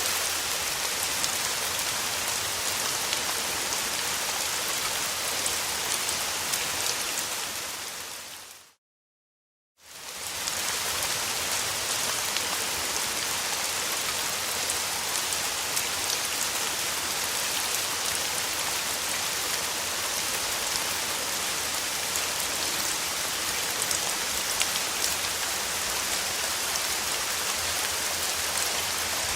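Steady summer rain falling on a surface, a dense even patter of drops. About nine seconds in it fades out to a second of silence and fades back up.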